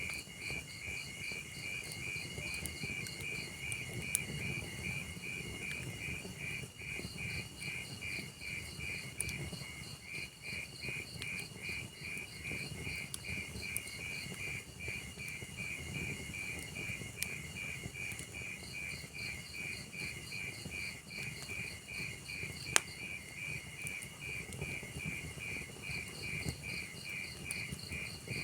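Crickets chirping in a steady pulsing rhythm, about three pulses a second, over the low rush of a burning wood fire. Scattered sharp crackles from the fire, with one loud pop late on.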